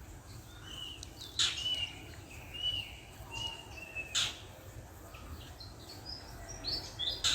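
Wild birds calling: three sharp calls about three seconds apart, with short thin whistled notes between them.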